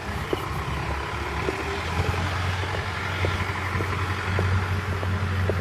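Mahindra Arjun tractor's diesel engine running steadily with a low hum.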